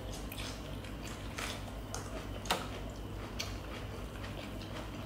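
Eating sounds: chewing with scattered short mouth clicks and lip smacks, one sharper click about two and a half seconds in.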